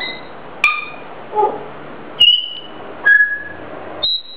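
African grey parrot giving a run of short, clear whistles, each at a different pitch, some high and some lower, with one lower, throaty note about a second and a half in.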